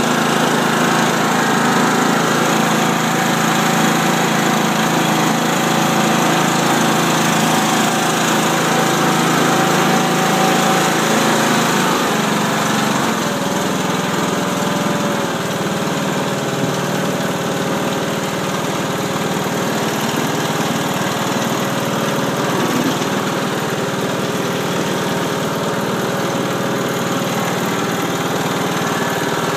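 2013 Husky YTH21K46 lawn tractor's 21 hp Kohler engine running steadily. About twelve seconds in, the engine note drops slightly and it runs a little quieter.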